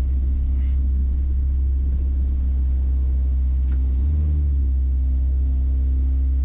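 Mazda B-series pickup's fuel-injected engine and road noise heard from inside the cab while driving, a steady low drone. The engine note shifts briefly about four seconds in.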